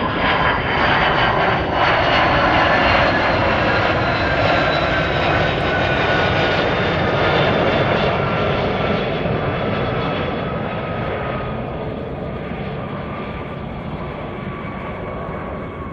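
An F-35 Lightning II fighter jet's single Pratt & Whitney F135 turbofan roaring as the jet passes overhead and moves away, its whining tones sliding slowly down in pitch. The roar is loudest in the first half and fades gradually toward the end.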